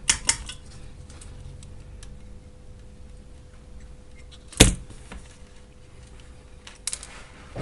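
Small clicks and taps of tools and battery parts being handled on a workbench, with one sharp knock about halfway through, over a faint steady hum.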